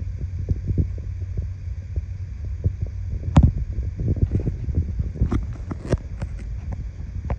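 1979 Honda CBX1000's air-cooled inline-six engine running just after a cold start, a steady low throbbing exhaust with a few sharper knocks, the loudest about three and a half seconds in.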